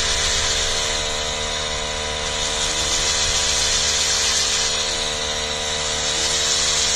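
Handheld power tool running steadily with a constant whine and a gritty hiss, cleaning rust and corrosion off metal contact surfaces to make a good ground connection.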